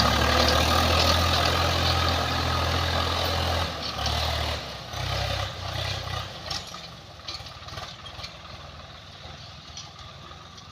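Tractor diesel engine running steadily with a low, even note. About four seconds in the note breaks up and fades, returns briefly, then gives way to a quieter hiss for the rest.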